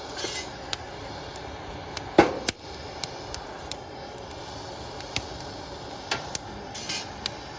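Wood fire crackling, with irregular sharp pops and snaps over a steady hiss, the loudest pop about two seconds in; the wood is damp from humid weather.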